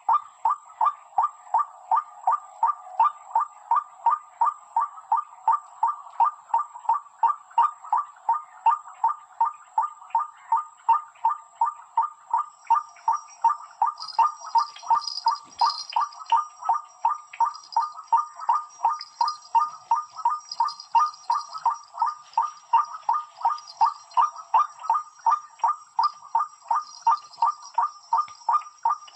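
Bird-call lure repeating one short note at an even pace, about two to three notes a second, without a break.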